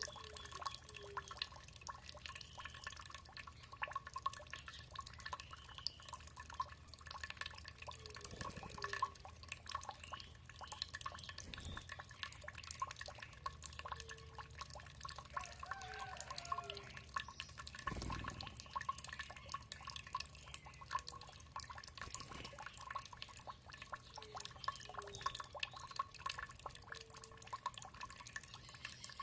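Water trickling and dripping in quick, irregular drops, with small bubbling gurgles now and then.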